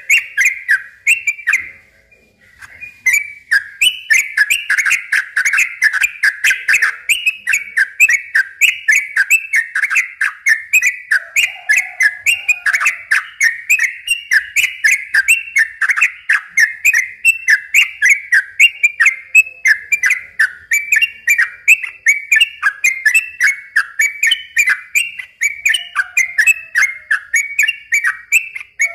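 Yellow-vented bulbul (trucukan) singing a long rapid run of bubbling whistled notes with no let-up, in the style bird keepers call 'ropel'. The song breaks off briefly about two seconds in, then carries on.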